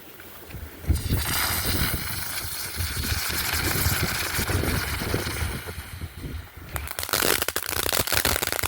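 Mega Banger crackling ground bloom firework: about a second in it ignites with a sudden loud hiss of spraying sparks that runs for several seconds as it spins, then breaks into rapid crackling near the end.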